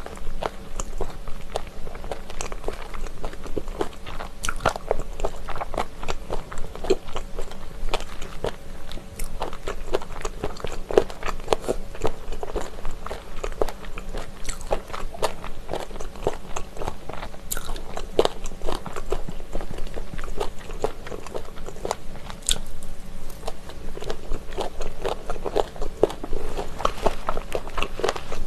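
Close-miked chewing of spicy chicken feet, a dense run of small crisp crunches and crackles as the cartilage is bitten through.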